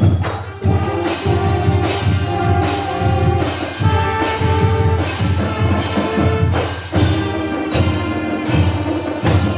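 A drum corps playing: sustained brass and mallet notes over heavy bass drum beats, with sharp percussion strikes landing about every two-thirds of a second.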